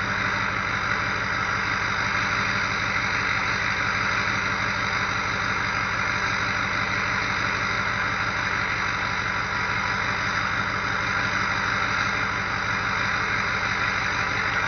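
2004 Ford F-250's 6.0L Power Stroke V8 turbodiesel idling steadily as it warms up after a cold start, with a steady high whistle from the turbocharger over the diesel clatter.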